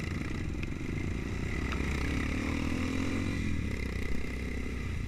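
Trail motorcycle engine running under way, with the engine pitch rising a little for a moment around the middle.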